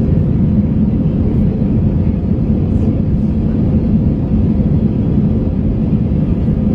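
Steady cabin roar of an Airbus A321 climbing out on a go-around: engine and airflow noise, with a faint steady hum above it.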